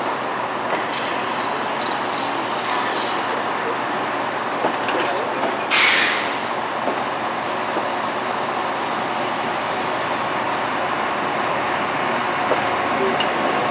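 Chiltern Railways Mark 3 coaches rolling along the platform: a steady rumble of wheels on rails with a faint high wheel squeal at times. About six seconds in comes a brief, loud burst of noise.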